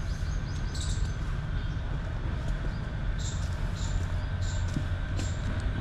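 Birds chirping: short, high calls at irregular intervals, coming more often in the second half, over a steady low rumble.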